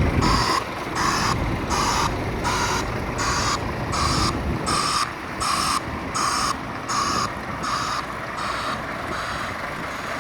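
Reversing alarm on a Scania R450 tractor unit beeping about twice a second over the engine's low running. The beeping fades out near the end.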